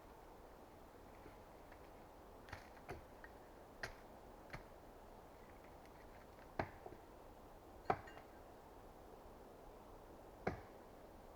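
About eight short, sharp knocks and snaps of wood at irregular intervals, the loudest one two-thirds of the way through, over a quiet background hiss.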